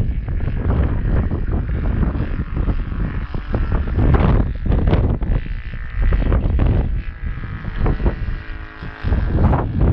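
Gusting wind buffets the microphone over the steady note of a Saito FG-21 four-stroke gas engine on an RC plane. The wind noise is the loudest sound and rises and falls in gusts, easing off briefly just before the end.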